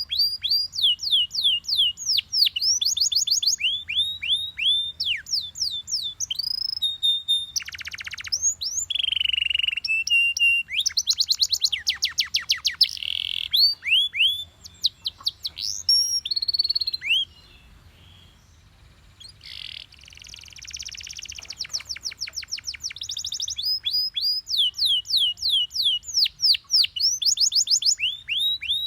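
Belgian canary singing: fast repeated runs of high, downward-sweeping whistled notes mixed with trills and buzzy rolls. There is a short pause a little past the middle, then the song resumes.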